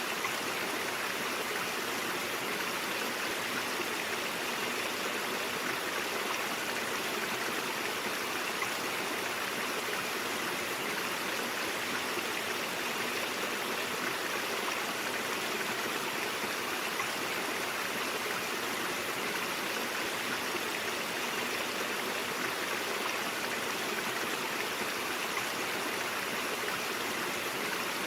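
Stream flowing, a steady, even rush of running water.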